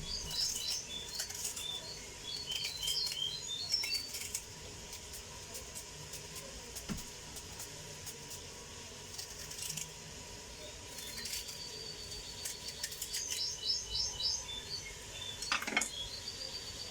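Small birds chirping in quick, high twittering phrases, once during the first few seconds and again from about eleven seconds on. A couple of soft knocks come in between.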